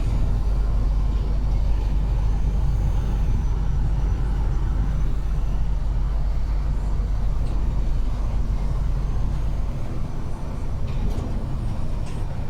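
Truck engine and road noise, a steady deep rumble; the deepest part of the rumble drops away about ten seconds in.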